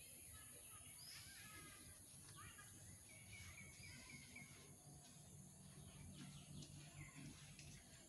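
Faint bird calls and chirps over quiet outdoor background, including a quick run of repeated notes about three to four seconds in. A faint low hum sits underneath through the middle.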